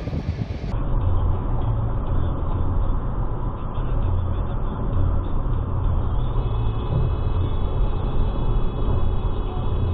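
Vehicle road noise picked up by a dashcam: a steady low rumble of engine and tyres. About six seconds in, a steady high-pitched tone joins it and holds until near the end.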